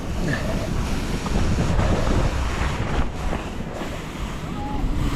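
Wind rushing over the microphone of a skier going down a steep slope, with the skis running over the snow.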